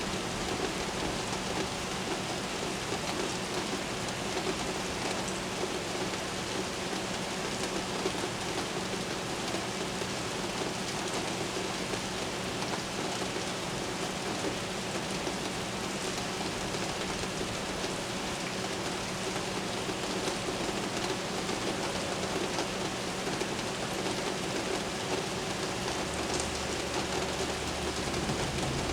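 Steady heavy rain falling on hard surfaces, with a sharp crack of thunder from a lightning strike about eight seconds in. A low rumble comes in near the end.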